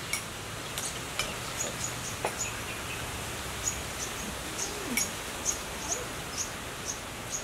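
A small bird calling over and over in short, high chirps, about two a second, with a few sharp clinks of spoons on bowls and glasses.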